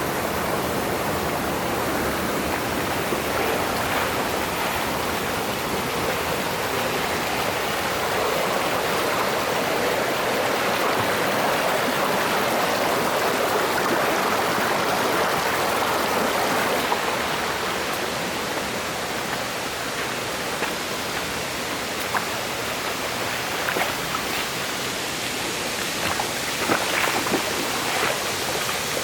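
Mountain stream flowing over rocks: a steady rush of water, with a few short splashes or knocks near the end.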